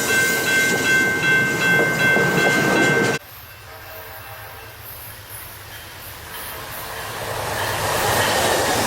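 Amtrak passenger train running on the rails with a steady high-pitched squeal over the rumble. The sound cuts off suddenly about three seconds in. After a quieter stretch, the rumble of a train builds again toward the end.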